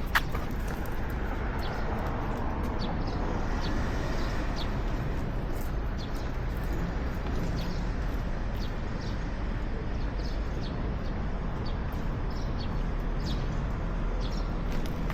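Outdoor street ambience: a steady low rumble with scattered short, high chirps, and a single sharp click right at the start.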